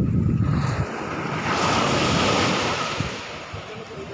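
Sea waves washing: a wave swells into a broad hiss around the middle and fades away, with wind buffeting the microphone in the first second.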